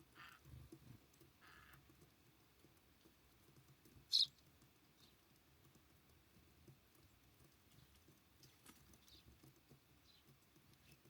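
Small birds at a feeder: a few faint high calls, one short sharp chip about four seconds in that stands out above the rest, and soft scattered pecking and landing taps.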